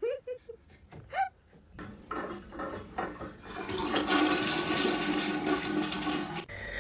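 Rushing, gurgling water, as from a toilet flushing, starting about two seconds in and cutting off suddenly near the end. In the first second or so come two short, high calls that rise and fall.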